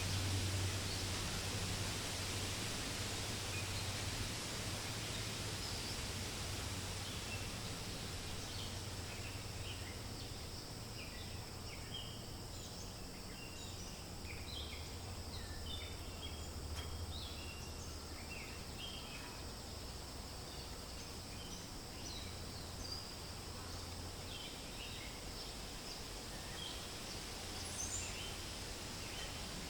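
Steady wind rustling through forest leaves, with many short, high bird chirps scattered through it, busiest in the middle stretch.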